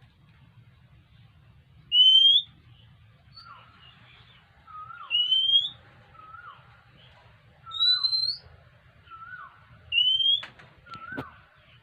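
Oriental magpie-robin whistling: four loud, clear rising whistles about three seconds apart, with softer short falling notes repeating between them. A couple of sharp clicks sound near the end.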